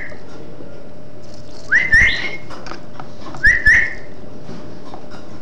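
Small bird calling: two pairs of short whistled calls, each rising quickly and then held, about two seconds in and again about three and a half seconds in, over a steady hiss.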